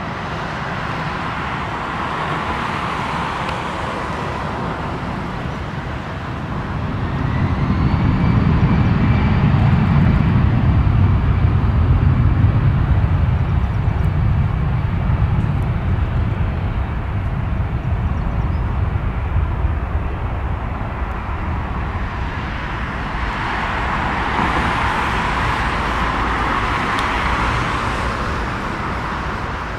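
Jet airliner taking off: a deep engine rumble builds about seven seconds in, is loudest a few seconds later, then slowly eases, with a thin steady engine whine over it.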